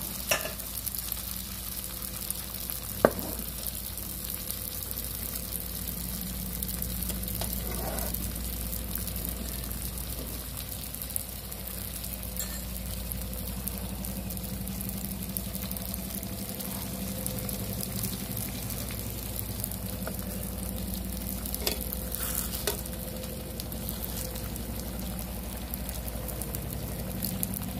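A batter pancake of small freshwater shrimp and scallions sizzling steadily in hot oil in a nonstick frying pan. There is one sharp click about three seconds in.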